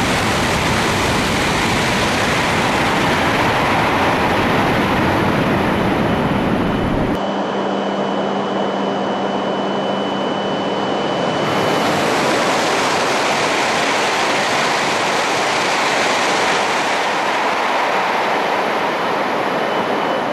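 Shinkansen bullet train passing through the station at high speed, a loud continuous rushing noise. About seven seconds in the sound changes abruptly and loses its low rumble, with a faint steady tone for a few seconds, before the rush goes on.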